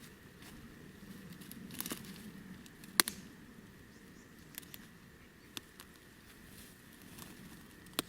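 Scattered sharp snaps and crackles, like dry twigs and leaf litter underfoot, with the loudest snap about three seconds in and a few fainter ones later.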